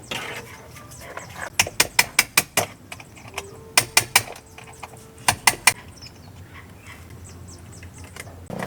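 Hand-tool work on metal: three short runs of sharp clicks, about five a second, with pauses between them.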